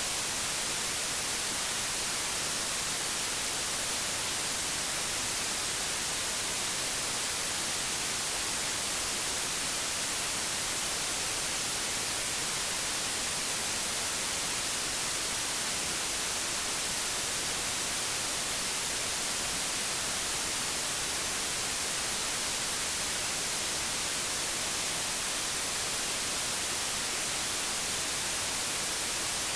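Analogue television static: a steady, even hiss, strongest in the high frequencies, unchanging throughout.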